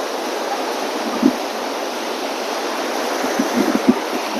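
Rough, storm-driven sea surf washing in a steady rush, with strong wind; a few low thumps of wind buffeting the microphone about a second in and again near the end.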